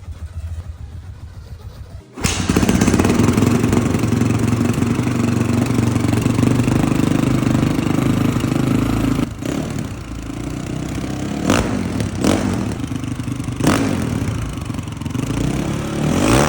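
Honda CRF450 single-cylinder four-stroke dirt-bike engine running after its alternator was replaced: quieter for the first couple of seconds, then suddenly much louder and steady for about seven seconds, then dropping back with several short throttle blips.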